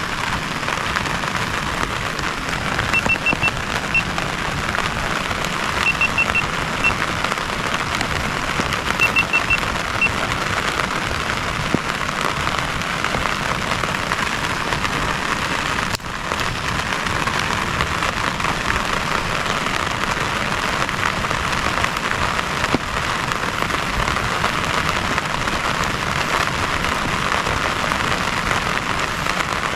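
Heavy rain falling steadily. In the first ten seconds, three small groups of short high peeps sound about three seconds apart.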